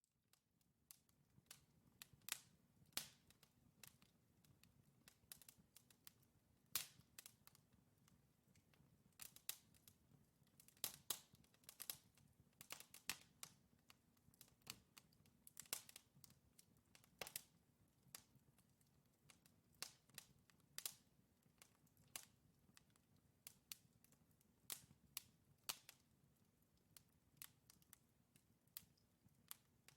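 Wood fire in a fireplace crackling, with irregular sharp pops from the burning logs, several a second at the busiest, over a faint low hiss of flames.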